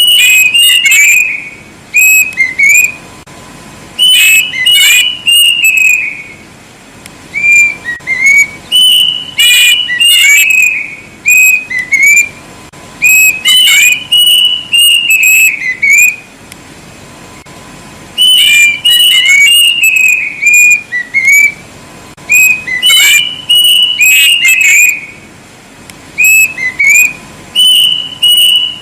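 Kedasih (plaintive cuckoo) singing very loudly. It gives phrase after phrase of high whistled notes, many slurring downward, with a pause of a second or two between phrases.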